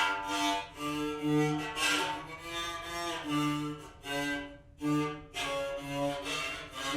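Mamokhorong, the Sesotho one-string bowed fiddle, played in short bowed notes that step between a few pitches as the thumb presses the string down to shorten it, with brief breaks between strokes.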